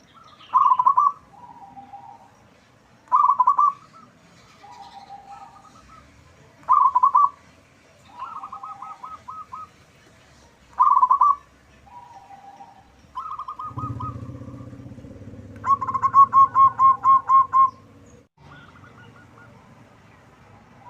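Zebra dove (perkutut) cooing: short, loud trilled phrases repeated every few seconds, with softer coos between them. About three-quarters through comes a longer run of loud, rapid notes.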